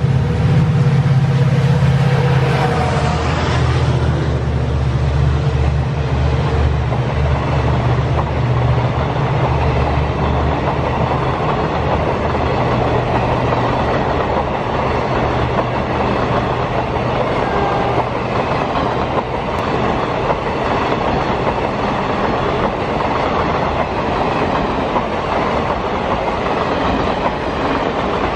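A passenger train running through a station at speed. A low steady locomotive drone dominates the first ten seconds or so and then fades, leaving the coaches' wheels clattering steadily over the rails.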